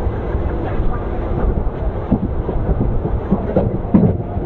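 Express passenger train running, heard on board: steady running noise of the wheels on the track with irregular knocks and rattles.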